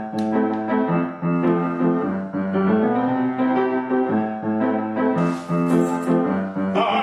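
Piano accompaniment playing an instrumental bridge of repeated chords between sung lines of a musical number.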